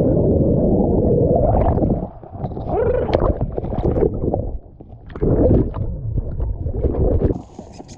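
River whitewater rushing and splashing around a paddle raft in rapids, a heavy, low, muffled surge that eases briefly about two seconds in and again near the middle.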